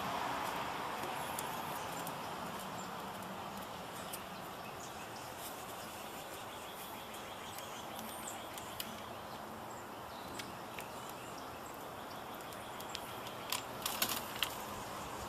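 Faint steady hiss, with a few light clicks and taps near the end from parts being handled while a computer case fan is swapped.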